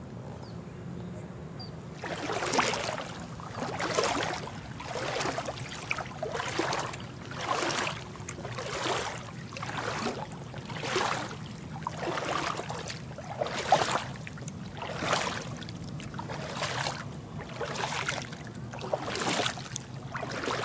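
Footsteps wading through shallow creek water, a splash and slosh with each stride at about one step a second, starting about two seconds in.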